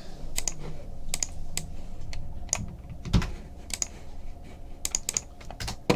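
Computer keyboard typing in irregular clicks, with a single dull knock about three seconds in.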